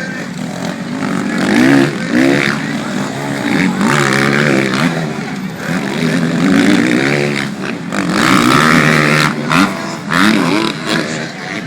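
Motocross motorcycle engines racing, revving up and dropping back over and over as the bikes accelerate, shift and pass.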